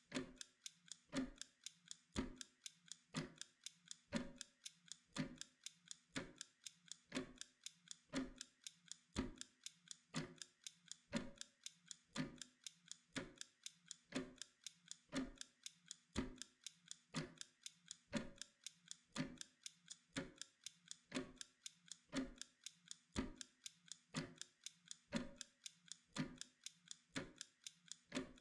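Mechanical kitchen timer ticking steadily, about two ticks a second with every other tick louder.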